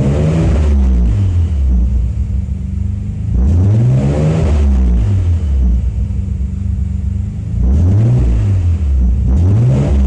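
Nissan Skyline R32 GT-R's twin-turbo RB26DETT straight-six, stationary, blipped from idle toward about 3,000 rpm four times. Each time the engine note rises sharply and drops back.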